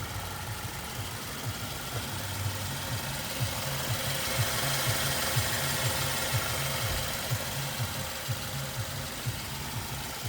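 BMW E90 car engine idling, with a light regular pulse about twice a second; it grows a little louder for a few seconds midway.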